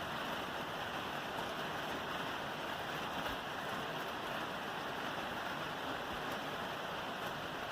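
Steady rain falling on a roof, an even patter with faint scattered drips and no pauses.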